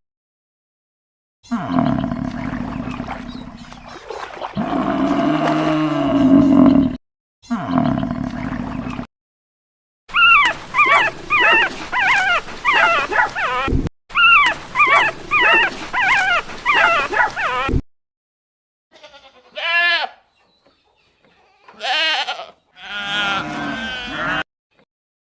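A string of separate farm and domestic animal calls with abrupt cuts between them. Rapid high yelps crowd the middle, and several wavering bleats like those of a goat or sheep come near the end.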